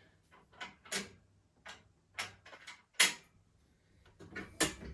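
Plasterboard panel lifter being handled and adjusted: an irregular string of sharp clicks and knocks from its parts, the loudest about three seconds in.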